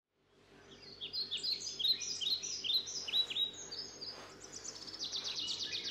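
Several birds chirping and calling, starting about half a second in. The calls are repeated short, high notes that slide downward, and a rapid trill of quick notes comes about five seconds in.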